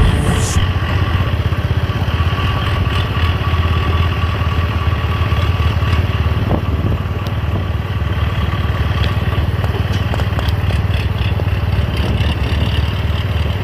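Motor vehicle driving steadily on a road: an even, loud engine rumble with road and wind noise.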